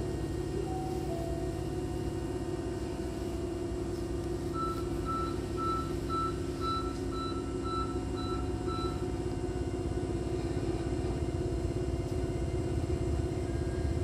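Steady low hum inside a stationary Hankyu commuter train car with its doors shut, from its onboard electrical equipment. About four seconds in, a run of about ten short high beeps sounds, roughly two a second.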